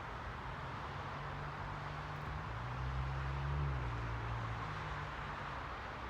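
Steady background hiss, with a low engine hum that swells about halfway through and then fades, like a vehicle passing.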